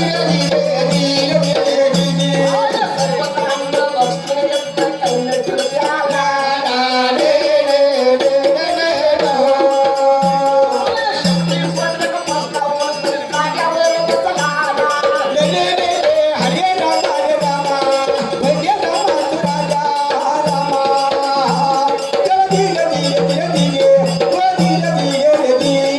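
Marathi folk devotional music: a melody over a held drone, with a hand drum striking a low note about once a second and shaken rattle-type percussion.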